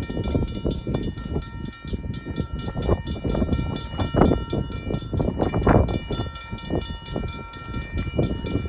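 Locomotive air horn sounding one long, held chord of several tones over the rumble of a passing train, with gusts of wind on the microphone.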